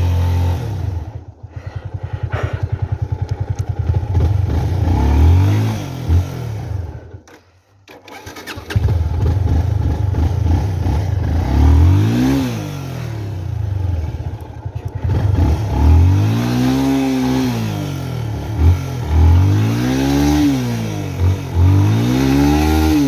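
Motorcycle engine running and revved up and down in repeated surges, as when a rider works a bike through a steep, rough stretch of track. The sound drops away almost to nothing for about a second, roughly seven seconds in, then the engine runs again.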